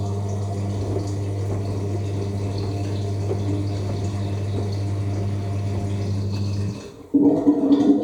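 AEG L7FE7461BI washing machine's drain pump running with a steady hum as water is pumped out at the start of the final spin. It cuts out about seven seconds in, and a brief, louder pitched sound from the machine follows near the end.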